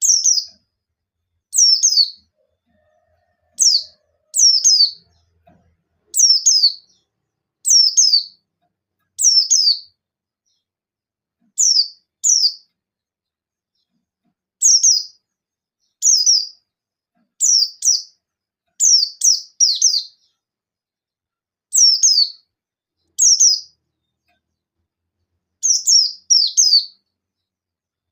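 Pleci buxtoni white-eye giving sharp, high call notes that sweep downward, mostly in quick pairs or threes and repeated every second or two. These are the 'nembak' calls keepers use to provoke rival white-eyes into answering.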